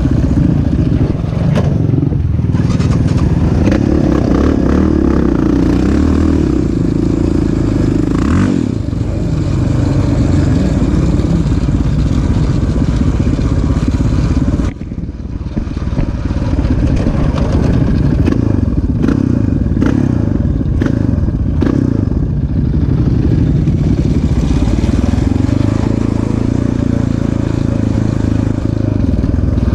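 Off-road vehicle engine being ridden on a motocross track, revving up and down with the throttle. About halfway through it briefly drops off, then picks up again.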